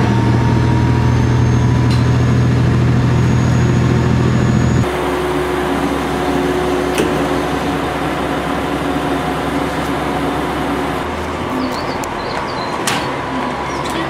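A train running, heard from on board: a loud steady low drone with a faint rising whine. About five seconds in it cuts to a quieter steady hum of a KiHa 47 diesel railcar idling at a platform, with a couple of sharp clicks.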